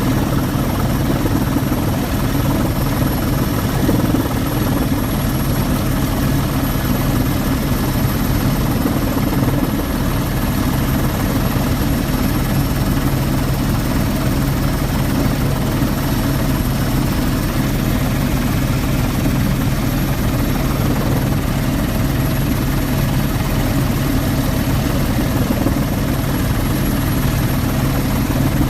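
Helicopter in flight, heard from inside the cabin: a steady, unbroken drone of rotor and engine.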